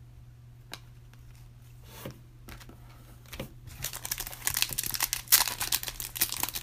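Foil wrapper of a Panini Prizm retail card pack being handled and torn open, with a few small clicks first and then steady crinkling and tearing for the last three seconds or so. A faint steady electrical hum sits underneath.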